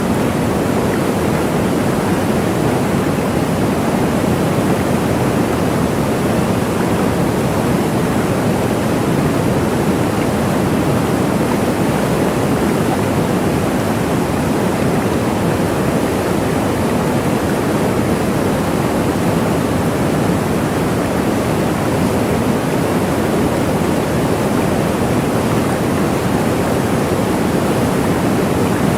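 Waterfall: a steady, unbroken rush of falling water, fullest in its low and middle range.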